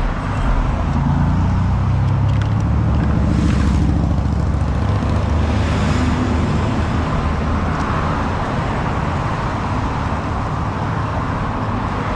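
Road traffic noise at the roadside: a steady low engine rumble with vehicles passing, two of them swelling up and fading about three and six seconds in.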